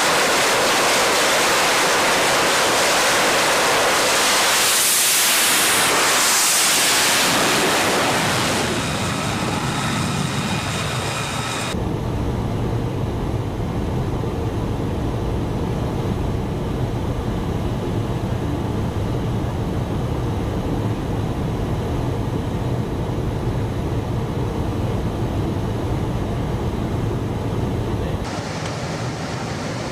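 Fighter jet engine noise: a loud roar that swells and falls away about five to seven seconds in, as of a jet passing, with a faint whine around ten seconds. From about twelve seconds it gives way abruptly to a lower, steady engine rumble, which changes abruptly again near the end.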